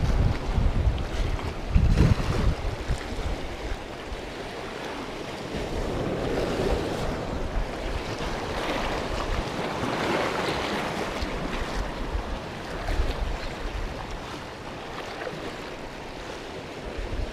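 Wind buffeting the microphone over the wash of sea waves, gusting hardest in the first few seconds and then settling into a steady rushing noise that swells and fades.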